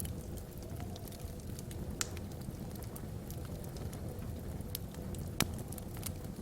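Wood fire burning in a fireplace: a steady low rumble of flames with scattered sharp crackles and pops, two louder pops at about two seconds and five and a half seconds in.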